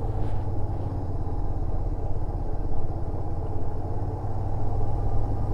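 Yamaha SRV250 motorcycle's V-twin engine running steadily as the bike is ridden, a constant low drone with road and wind noise, muffled by a recorder tucked into the rider's jacket.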